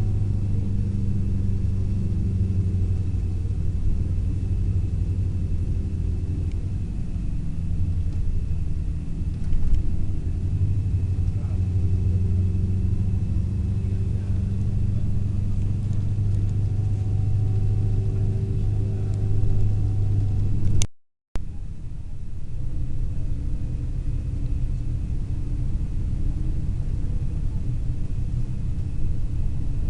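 Long-distance sleeper coach running on the road: a steady low engine drone with road rumble. The sound cuts out to silence for a split second about two-thirds of the way through.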